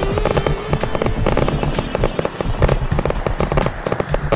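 Fireworks crackling and popping in a rapid, irregular stream of sharp reports, with music playing underneath.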